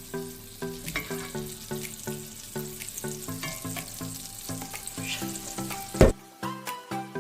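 Ostrich egg frying in a pan on the stove, a steady sizzle, under background music with a regular rhythm of plucked notes. A single sharp knock about six seconds in, after which the sizzle drops away and the music goes on.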